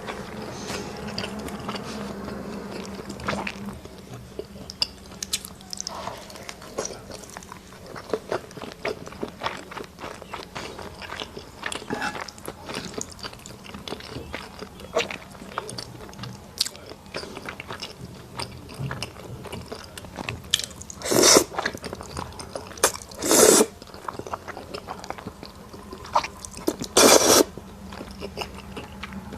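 Close-up eating sounds: a person chewing and biting, with many small clicks and crackles. Three short, loud rushing sounds stand out in the last third.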